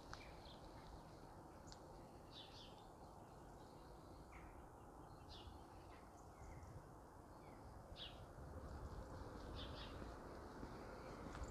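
Faint outdoor quiet: short bird chirps and calls scattered through, about one every second or so, over a low rumble that grows a little after about eight seconds.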